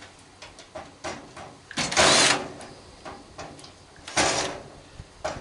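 Hand tools clicking and scraping against the microwave's metal chassis while working at a screw: light scattered clicks, with two loud short rasps about two seconds in and again about four seconds in.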